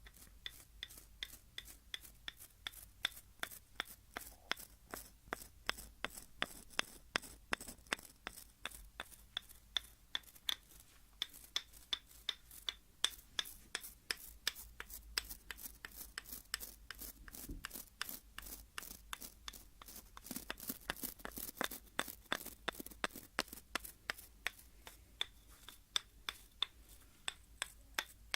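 A hair comb tapped on a wooden surface while a hairbrush is drawn across it, making a steady run of crisp clicks, about three a second.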